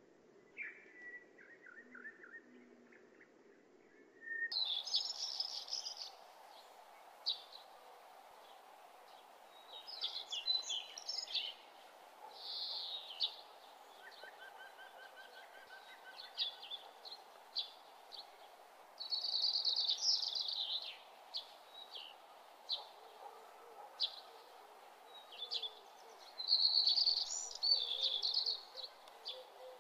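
Birdsong: short bursts of high chirps and trills every few seconds over a faint steady hum, growing fuller about four seconds in.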